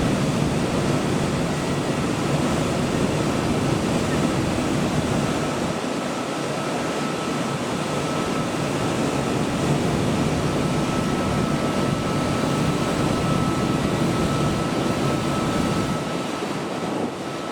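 Steady railway station platform ambience: an even rushing hum with a faint, steady high tone.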